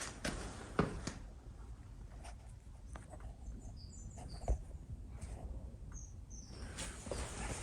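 Scattered light clicks and knocks of tools and a steel plate being handled at a drill-press vise, with a few short, faint high squeaks in the middle.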